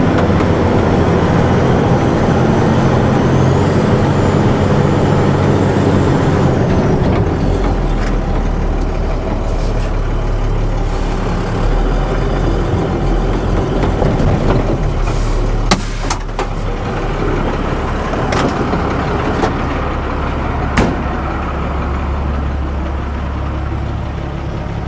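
A heavy vehicle's engine labouring as it climbs a slope with a load of pond mud. The engine note shifts about a quarter of the way in, and a few sharp clanks come past the middle.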